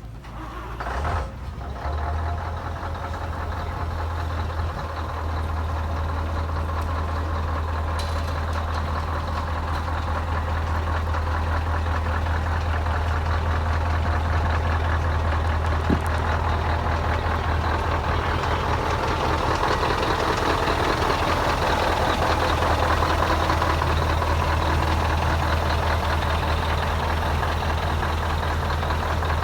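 Heavy truck's diesel engine idling, a deep steady drone that grows gradually louder.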